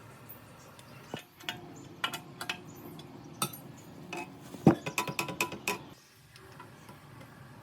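Metal parts and tools clinking and knocking against each other, a string of sharp taps with short ringing. The loudest knock comes a little past the middle.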